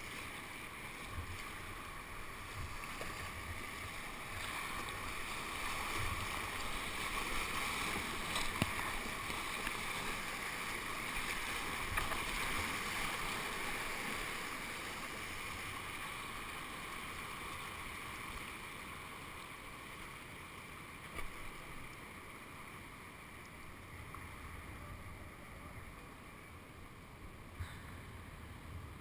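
Rushing whitewater of a man-made whitewater course, swelling louder for several seconds and then easing off, with a few sharp knocks.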